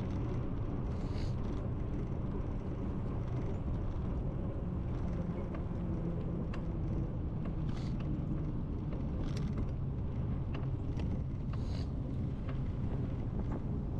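Steady low rumble of wind buffeting the microphone and road noise from a bicycle being ridden, with a few faint ticks scattered through.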